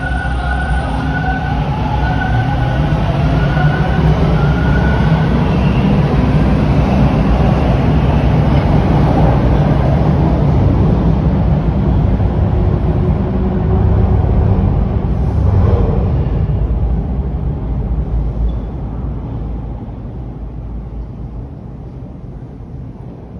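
TTC Bombardier T1 subway train running on Line 2 track. A pitched motor whine is heard in the first few seconds, a heavy low rumble builds and holds, and the rumble then fades away over the last several seconds as the train moves off.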